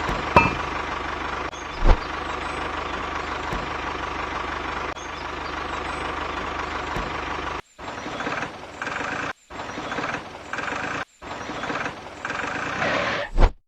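Small motor of a DIY mini tractor running steadily with an engine-like drone, with two sharp knocks in the first two seconds. From about halfway through, the sound is chopped by several abrupt short gaps.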